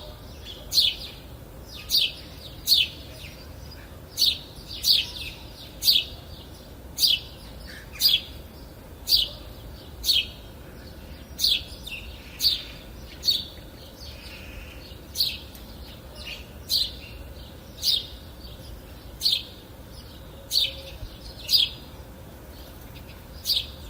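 A songbird calling over and over: a short, high chirp that falls in pitch, repeated about once a second at an uneven pace, some twenty times.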